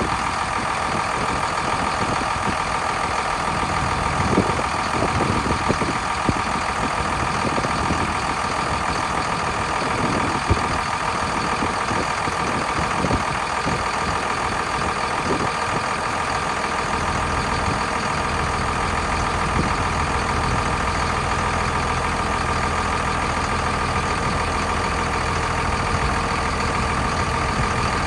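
Cummins ISB inline-six turbo diesel engine running at a steady idle, with a steady high whine over it. A few short knocks come in the first half.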